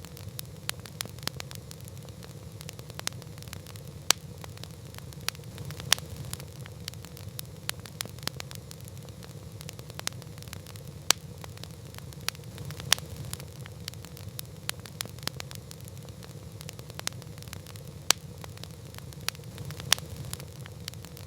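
Wood campfire crackling: irregular sharp pops and snaps, some much louder than others, over a steady low rumble of burning.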